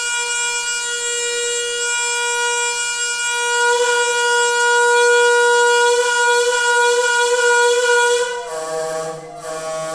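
Water pipe singing with a loud, steady horn-like tone that swells in the middle, then drops to a lower, rougher pitch near the end.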